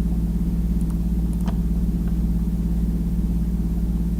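Steady low electrical hum with a few faint computer mouse clicks about a second in.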